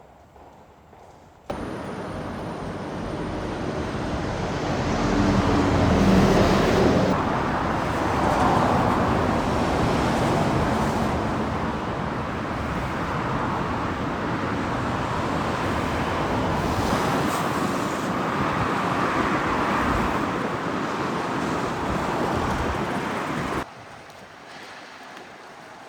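Loud, steady rumbling vehicle noise that starts suddenly, swells to its loudest about five seconds in, holds, and then cuts off abruptly near the end.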